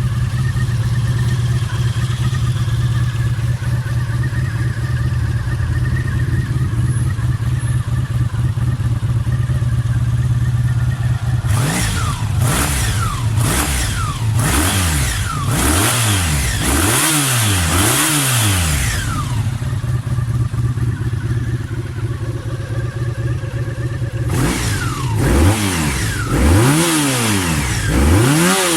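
Honda VF750F's V4 engine, through a JAMA-approved aftermarket muffler, idling steadily. About 11 seconds in it is revved in a quick series of throttle blips, settles back to idle, and is blipped again near the end. It runs on freshly cleaned carburettors and new plugs.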